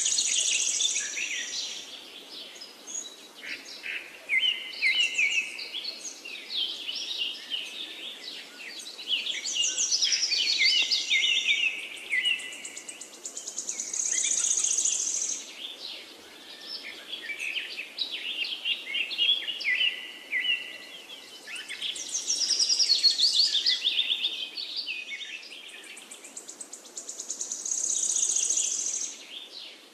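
Birdsong: several birds chirping and trilling, with a high buzzy trill that swells and fades every several seconds.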